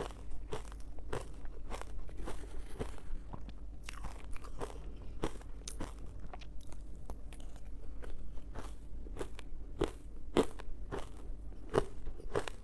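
Ice being bitten and chewed close to the microphone: a run of sharp, irregular crunches, about one or two a second.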